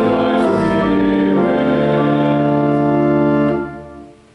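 Church organ playing a few sustained chords, the accompaniment to the congregation's sung liturgical response. The last chord is released about three and a half seconds in and dies away in the room.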